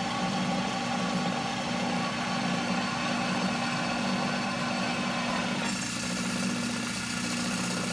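Drill press running with a steady motor hum while its bit drills into steel angle iron; the higher, noisier cutting sound drops away a little over halfway through.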